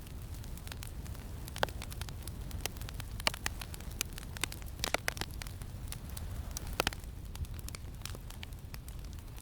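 Campfire crackling, with irregular sharp pops and snaps over a steady low wind rumble.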